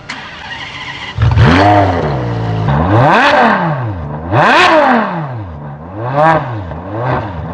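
Lexus IS 250's 2.5-litre V6 revved hard four times through a muffler-deleted exhaust. Each blip climbs quickly in pitch and falls back toward idle.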